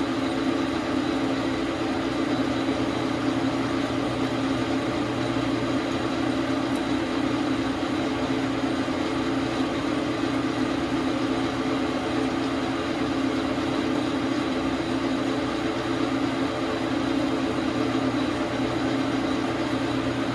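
Dar Sin 12 x 37 manual metal lathe running steadily with an even hum.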